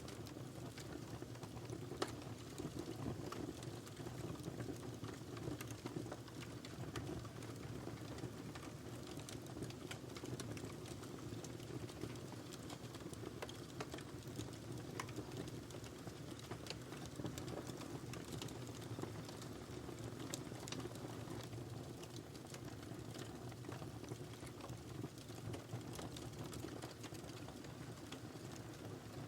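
Wood fire burning in a fireplace: a steady low rush of flame with scattered crackles and small pops throughout, one sharper pop about two seconds in.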